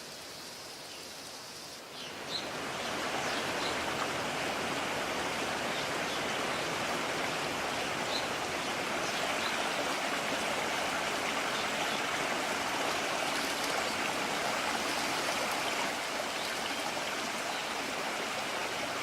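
Mountain stream rushing over rocks: a steady rush of water that comes in suddenly about two seconds in, after quieter open-air ambience, with a few faint bird chirps above it.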